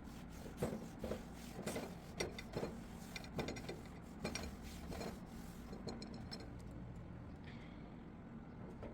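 A run of light knocks and clinks, about a dozen in five seconds, as hard objects are handled and set down. Several ring briefly, over a steady low hum.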